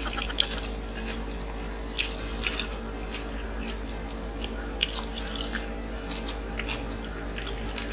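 Two people biting into and chewing sauce-glazed fried chicken drumsticks: a scatter of short, irregular mouth clicks and smacks.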